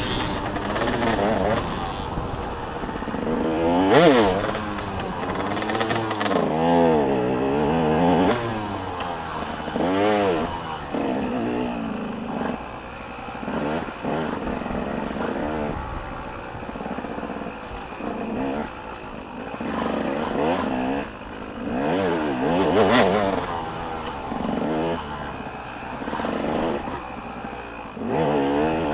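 Motocross dirt bikes racing, several engines overlapping and revving up and down over and over as riders go through the gears.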